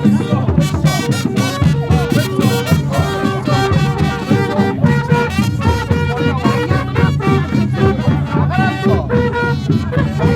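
Upbeat brass music with trumpets over a steady beat.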